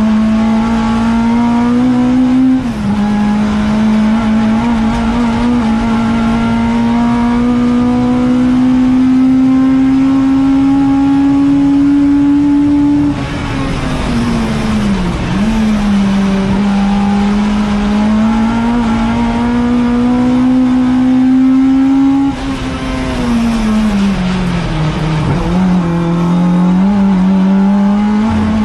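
Ford Fiesta ST150 race car's four-cylinder engine, heard from inside the car, under hard acceleration. It drops at an upshift about two and a half seconds in, then climbs slowly on a long pull. Near the middle and again near the end it falls away and dips through downshifts under braking, then climbs again.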